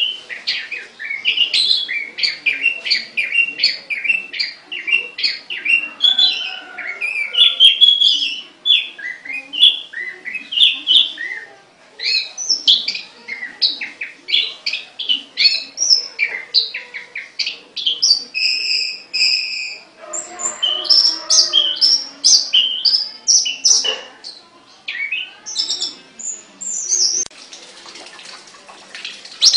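Caged songbird singing a fast, varied song of chirps and whistled notes in long phrases, with brief pauses between them. It includes a short run of three repeated two-note calls about two-thirds of the way through.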